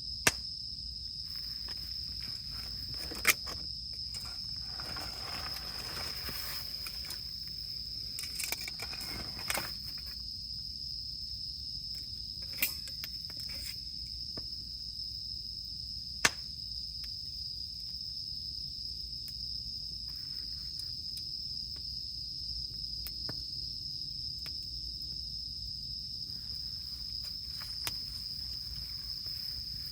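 Wood campfire crackling, with several sharp pops standing out, over a steady high-pitched insect drone.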